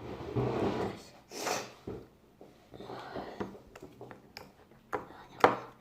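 Close handling noises: rustling and a short hissing burst, then a few sharp clicks or taps, the loudest near the end.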